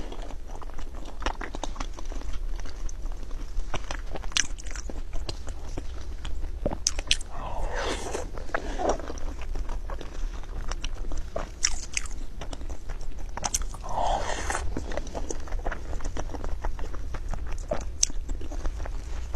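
A person chewing raw salmon rolls: a steady run of wet mouth clicks and smacks, with two longer, louder bursts about 8 and 14 seconds in.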